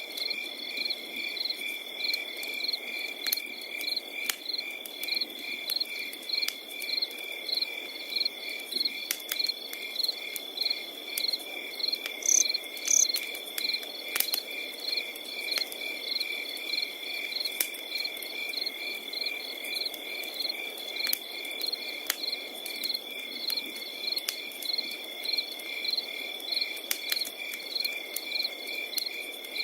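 Crickets calling without a break: one steady high trill together with regular, evenly paced chirping from others. Through it, a wood fire crackles with scattered sharp pops over a soft low hiss.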